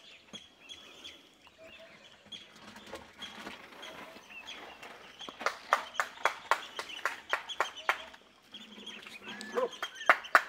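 Birds chirping, with a quick run of sharp clicks or knocks about halfway through and again near the end.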